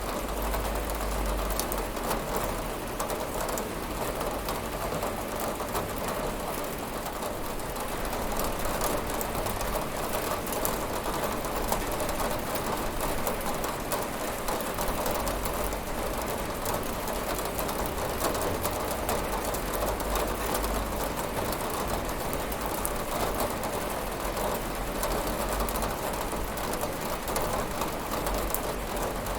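Steady rain pattering on a window, a dense even hiss with fine drop clicks throughout.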